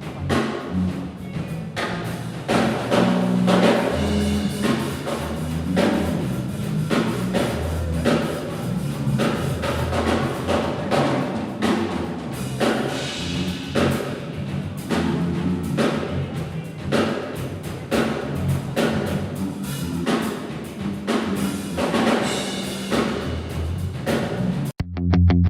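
Drum kit played non-stop in a busy run of rapid hits, with low pitched notes underneath. It cuts off abruptly about a second before the end, giving way to different music.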